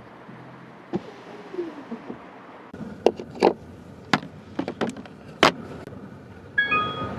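Car door and cabin controls being worked: a series of sharp clicks and knocks. A brief chime with several pitches sounds near the end.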